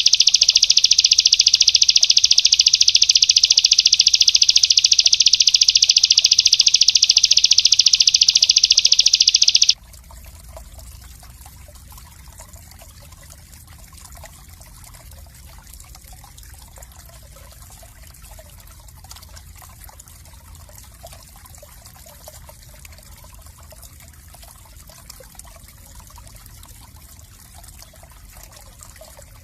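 Small songbird's rapid, tightly packed high trill, loud and unbroken for about ten seconds, then stopping abruptly. After that only a faint steady trickle of running water is left.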